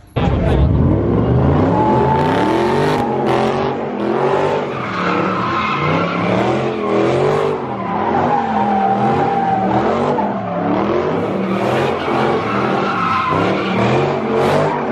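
Car engine revving up and down over and over while its tyres squeal as they spin, a sustained high screech over the wavering engine note.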